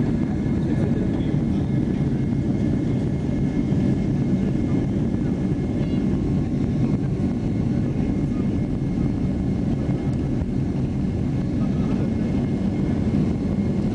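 Boeing 767 jet engines heard from inside the passenger cabin during takeoff: a steady, loud low rumble with a faint high whine above it.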